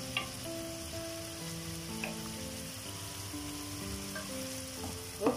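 Food sizzling as it fries, with a wooden spatula stirring rice noodles in an aluminium pan and a couple of brief scrapes or taps of the spatula. Faint background music of held notes runs underneath.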